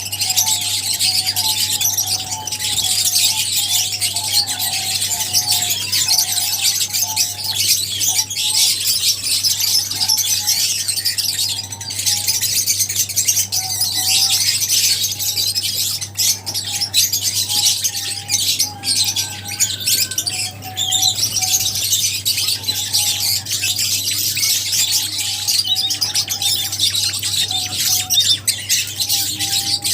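A colony of lovebirds chattering continuously in dense, shrill chirps and squawks, with a warbling lower call running underneath and a steady low hum.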